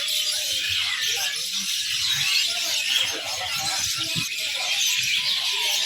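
A dense chorus of many small songbirds chirping and twittering at once, high-pitched and steady throughout.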